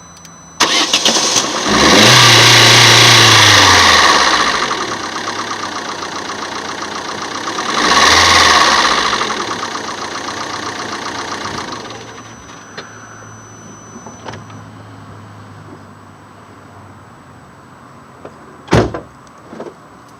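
Opel Meriva A engine idling, then revved twice: it rises and falls around two seconds in and again around eight seconds in, settling back to a steady idle after about twelve seconds. A single sharp thump sounds near the end.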